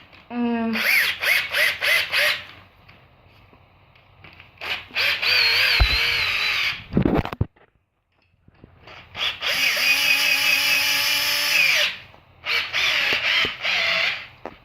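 Electric drill-driver running in several goes: a short rising spin-up, a run of quick pulses, then two longer runs of a few seconds each with the pitch wavering under load, and more quick pulses near the end. It is driving screws tight.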